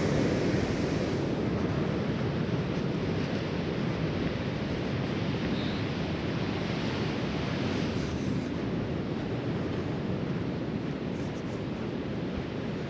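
Steady rush of wind and ocean surf, with wind buffeting the microphone.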